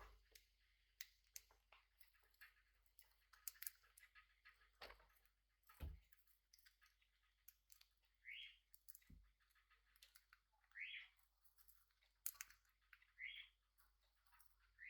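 Faint scattered clicks and taps from pet parrots, with three short, soft rising chirps about two and a half seconds apart in the second half.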